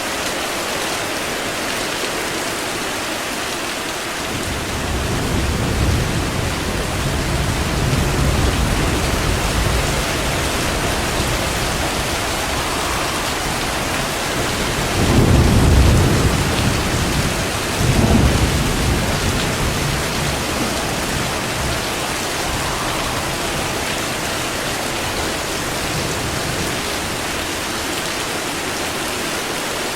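Steady heavy rain with rolling thunder: a long low rumble builds about four seconds in, and two louder peals follow about halfway through, a couple of seconds apart.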